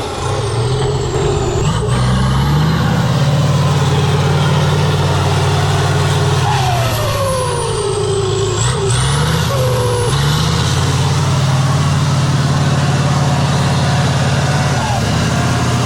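Heavy off-road trial truck's diesel engine working hard under load, its pitch climbing and holding twice, with a falling whine in the middle.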